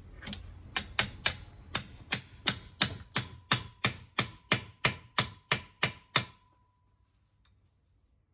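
Hammer striking metal in a steady series of about seventeen sharp blows, roughly three a second, each leaving a short ringing note; the blows stop abruptly about six seconds in.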